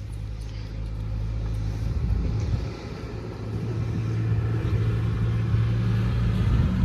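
An engine running with a steady low hum. It dips briefly a few seconds in, then grows louder toward the end.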